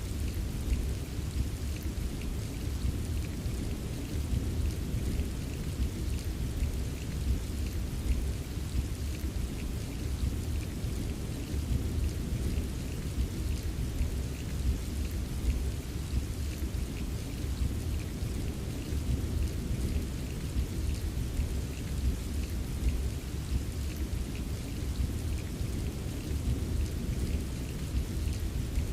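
Steady rain ambience: a dense hiss of fine raindrop ticks over a deep, continuous low rumble.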